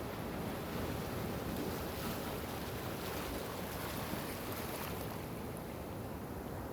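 Steady rushing noise of waves and wind, swelling slightly in the first few seconds.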